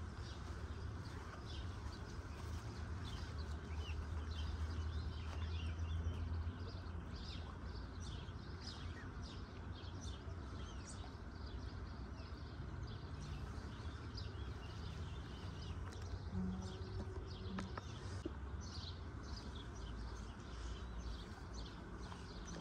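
Many small birds chirping and calling in quick, scattered notes over a steady low rumble, which swells for a few seconds near the start.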